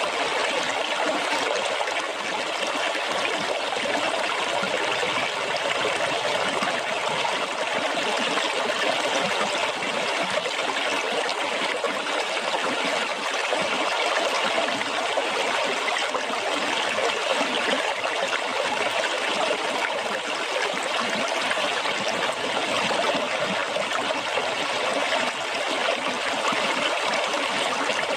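Water splashing and trickling steadily, like a small stream running over stones.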